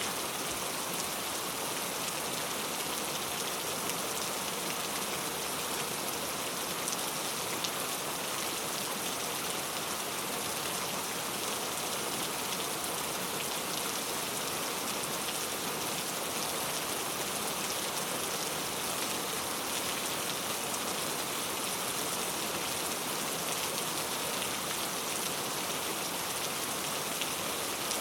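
Very heavy rain falling steadily, a dense even hiss of countless drops on hard surfaces with fine crackle, without a break or change.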